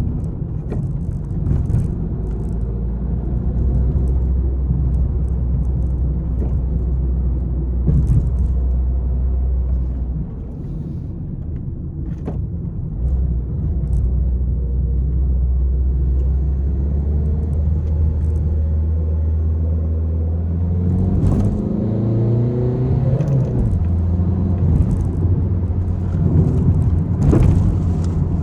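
Peugeot 301 being driven hard: a steady engine drone with road rumble, and the engine note rising and falling about two-thirds of the way through as it revs.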